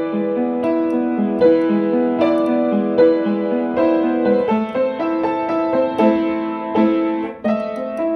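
Instrumental piano or electric-piano music: sustained chords over a repeating low figure, with a note struck about every half second to second.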